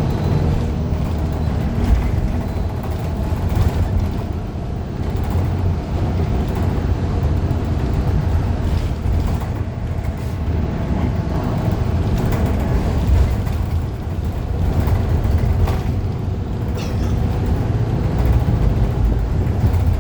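Steady low rumble of a 2015 Gillig Low Floor 40-foot CNG transit bus under way, heard from inside the cabin: its Cummins Westport ISL G engine and road noise, with a few faint knocks.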